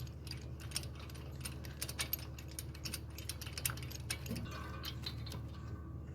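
Scattered light metallic clicks and taps of hand tools and small parts being handled while working on a lawnmower engine, over a steady low hum.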